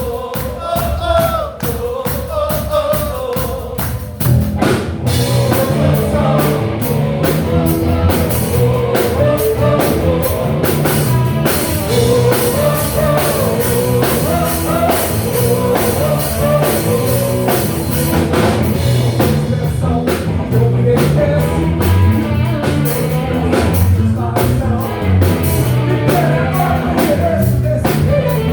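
Live rock band playing with a singer: a sung melody over light accompaniment, then about four seconds in the drum kit and full band come in and play on loudly.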